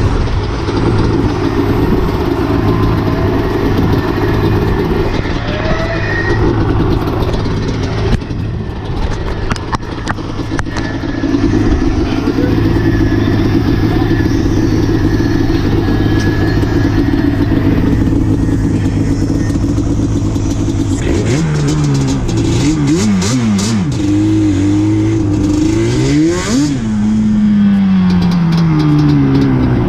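Motorcycle engine running steadily, then revved up and down several times in its last third, with a long falling drop in revs near the end.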